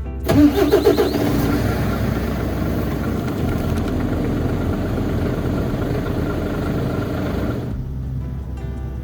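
Truck engine starting: a brief crank that catches, then runs steadily for several seconds before the sound stops short near the end.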